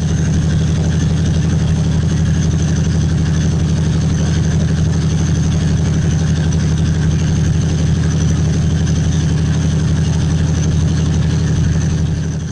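Diesel locomotive engine running steadily just after a cold start: a loud, even low drone.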